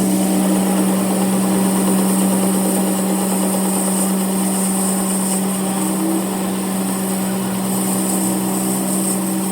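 A machine motor running steadily with a constant hum.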